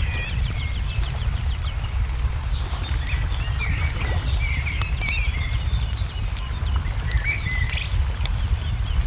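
Wood fire crackling with scattered small pops over a steady low rumble, while small birds chirp in short, quick phrases on and off.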